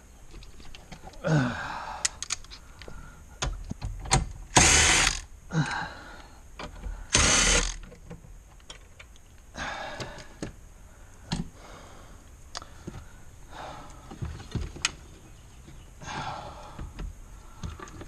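Socket and ratchet work on interior bolts with a 10 mm socket: scattered ratchet clicks and metal clinks, with two brief loud noisy bursts about five and seven seconds in.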